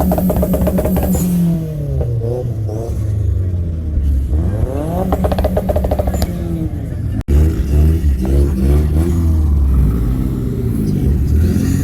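A parked car's engine being revved again and again through a loud exhaust, each rev climbing in pitch and falling back. The sound cuts out for an instant about seven seconds in.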